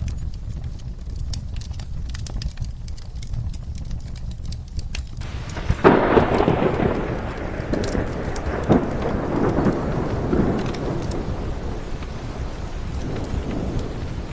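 Steady rain with the sharp crackle of a wood fire. About six seconds in, a thunderclap breaks suddenly and rumbles away over the following several seconds.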